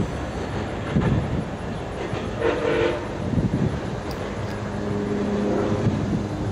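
MARC MP36PH-3C diesel locomotive and its passenger cars running away down the track, a steady rumble of engine and wheels on rail. A brief horn-like note sounds about two and a half seconds in, and a steady low hum comes in near the end.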